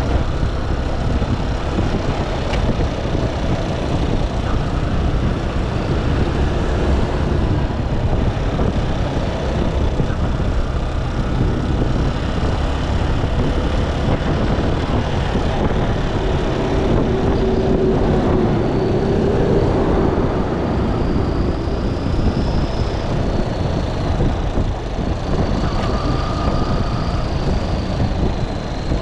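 Motorcycle on the move: engine running under steady, heavy road and wind noise, with a faint passing tone from traffic partway through.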